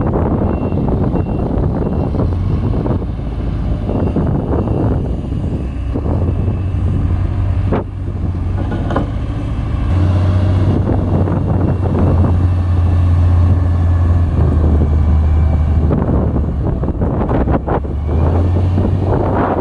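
Heavy diesel engine of road-construction machinery running steadily, a low drone that grows stronger about ten seconds in, with a few short knocks over it.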